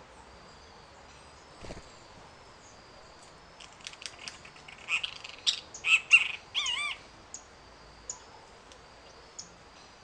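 Birds chirping: a run of short high chirps and trills about four seconds in, ending in a wavering whistled note, with a few single chirps after. A soft knock comes near the start.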